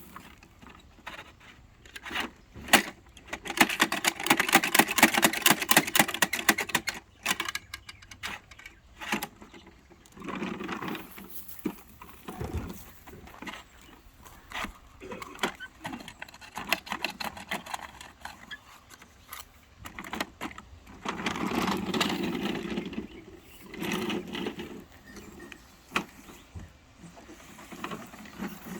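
Garbage truck collecting trash: rattling and clattering that come and go in spells, with a dense rapid rattle a few seconds in, and scattered sharp knocks and bangs between.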